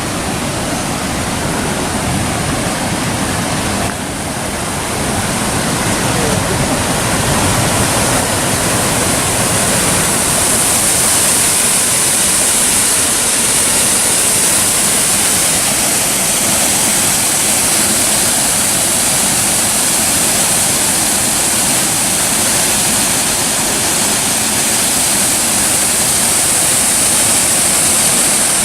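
Water pouring over the Jagala waterfall: a loud, steady rush of falling water that grows a little louder over the first ten seconds, then holds.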